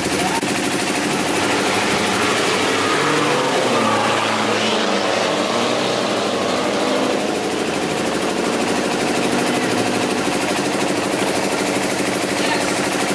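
Drag-race car engines idling steadily, with an engine revving up and down a few seconds in.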